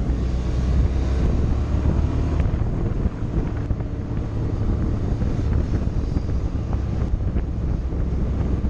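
Motorcycle engine running while riding, with wind rushing over the microphone. The engine's low hum drops in level about two and a half seconds in.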